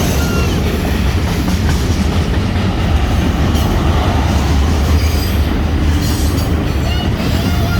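Union Pacific mixed freight train rolling past: a loud, steady low rumble of cars on the rails, with a few brief, faint wheel squeals.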